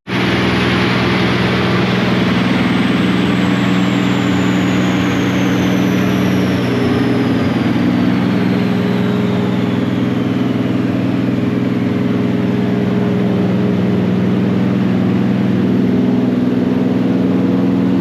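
Car engine running steadily at constant revs. A faint high whine slowly falls in pitch over the first dozen seconds.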